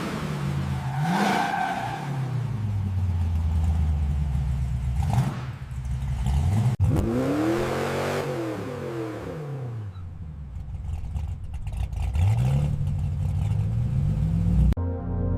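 Car engine revving, its pitch climbing and falling several times. Music takes over near the end.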